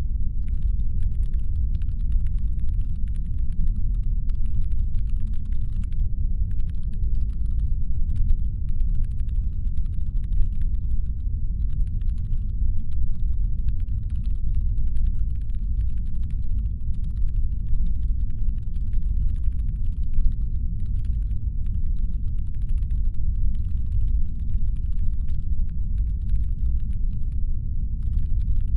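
Steady deep brown-noise rumble, the designed hum of a spaceship's engines. Over it runs a much fainter layer of rapid, fine clicking, like distant keyboard typing, which starts about half a second in and drops out briefly a few times.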